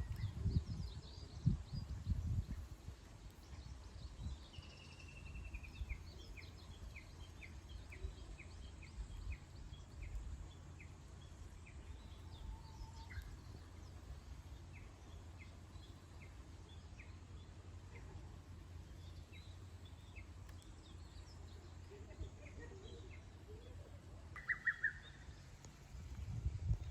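Wild birds singing over a steady low background rumble: a short falling trill, then a long run of short high notes repeated about twice a second, and a brief burst of notes near the end. The rumble is louder in the first couple of seconds.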